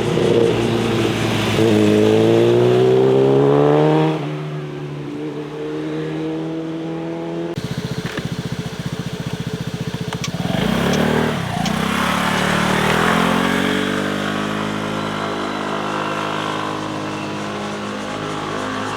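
Motorcycle engines accelerating past: one bike revs up with a rising pitch that drops off about four seconds in, a slower pulsing engine follows around the middle, and another engine climbs in pitch through the second half.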